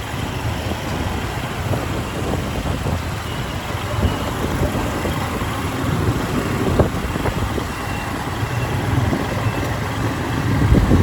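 Motorcycle running on a ride through city traffic: a steady engine and road rumble with other vehicles around it, and a few short knocks.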